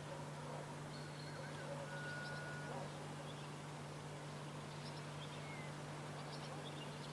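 Faint scattered bird chirps and short whistled calls over a steady low hum, with one held whistle note about two seconds in.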